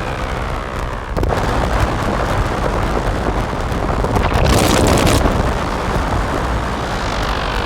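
Heavily distorted modular-synth noise drone from a Make Noise Strega, Maths and Morphagene patch run through Death By Audio fuzz and filter pedals: a dense, rumbling wall of noise. It shifts abruptly about a second in, swells into a bright hiss around the middle, and a falling pitch glide sweeps down near the end.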